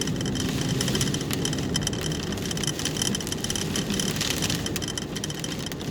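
Inside a car's cabin, the engine runs steadily while rain strikes the roof and windshield in many small ticks.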